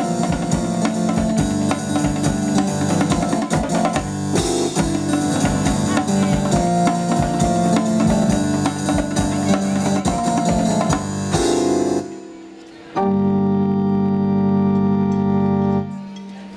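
Live band playing an instrumental passage on electric keyboard with drums. About twelve seconds in the music breaks off for a moment, then a single keyboard chord is held steady for about three seconds before the band comes back in.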